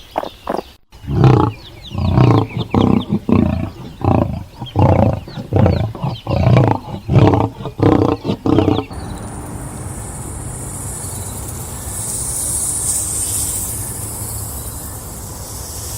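A big cat giving a series of about ten deep, loud roaring calls, one every second or less. The calls give way about nine seconds in to a steady rushing noise.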